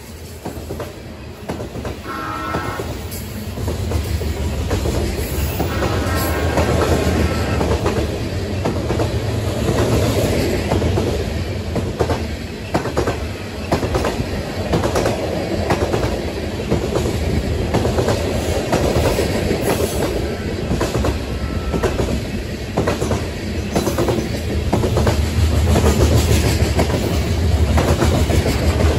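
BNSF covered hopper cars of a freight train rolling past close by: a steady rumble with repeated clicking of wheels over rail joints, louder from about four seconds in.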